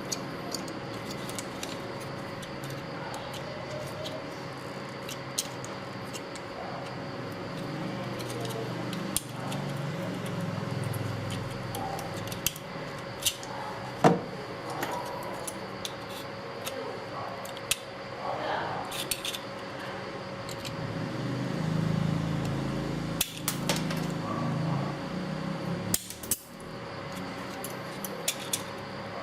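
Hand tools clinking and tapping on metal parts in irregular, scattered clicks, with one sharper knock about halfway through, over a faint steady hum.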